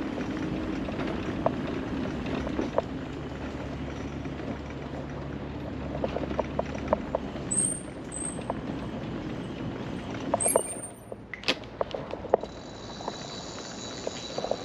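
Electric mobility scooter rolling along, its motor humming steadily with scattered clicks and knocks; the hum fades out about seven seconds in, and a steady high-pitched tone comes in near the end.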